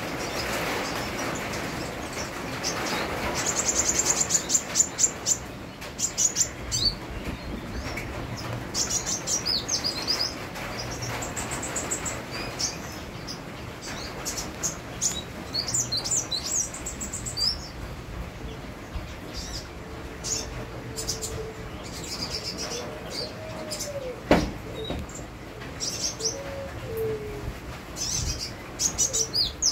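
A sunbird (kolibri wulung) singing actively: rapid high chirps and fast trills in repeated bursts, over a steady hiss of rain. There is a single sharp click about 24 seconds in.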